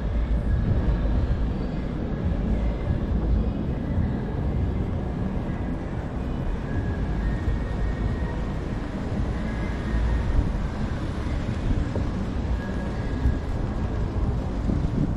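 City street ambience recorded on foot: a steady low rumble of traffic and crowd noise, with no sudden or standout events.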